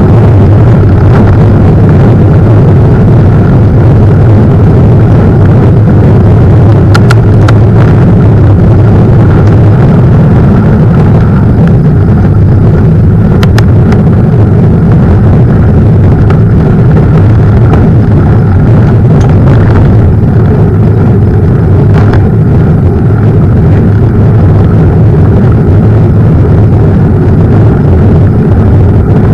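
Steady, loud wind buffeting on the microphone of a camera riding along on a moving mountain bike, with a few sharp knocks from the bike jolting over bumps on the trail.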